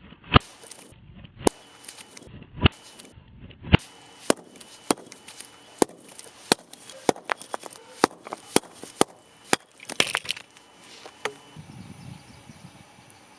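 Firewood cracking and snapping: irregular sharp cracks, about one or two a second, that stop about eleven seconds in.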